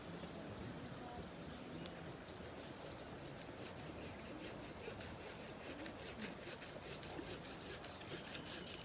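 Continuous scratchy rasping of wood being worked by hand, with many quick small strokes.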